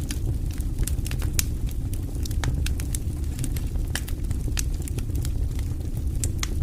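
Campfire crackling and popping irregularly over a steady low rumble of burning wood.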